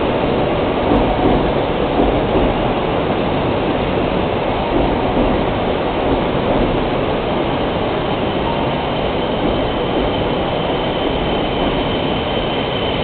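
E5 series shinkansen rolling slowly into the platform on arrival, a steady low rumble of the train running past. A faint high steady whine comes in about two-thirds of the way through and grows toward the end as the train slows.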